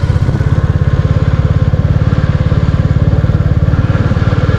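Royal Enfield Classic 350's single-cylinder engine running steadily, with a fast, even thudding beat from the exhaust.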